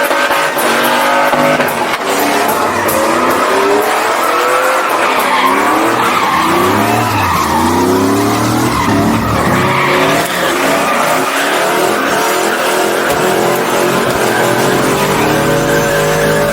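A truck engine revving hard in a burnout, the revs climbing and dropping again and again before holding high near the end, over the hiss and squeal of spinning tires.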